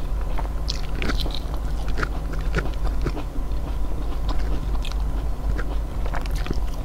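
A man biting and chewing food, heard close up: irregular mouth clicks and smacks over a steady low hum.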